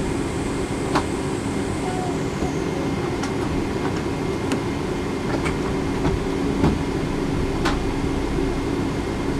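Cabin noise inside a Boeing 777-200 airliner: a steady rumble and hum from the engines and air conditioning, with scattered light clicks and knocks about a second apart.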